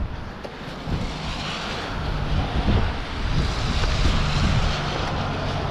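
Wind buffeting an action-camera microphone with a low rumble, while a rushing hiss swells about two seconds in and eases off near the end.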